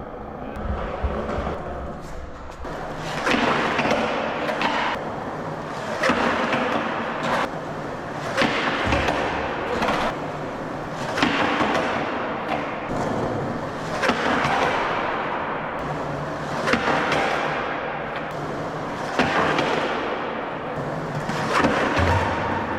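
Repeated scraping strokes on a concrete skate ledge with sharp knocks, about one every two and a half seconds.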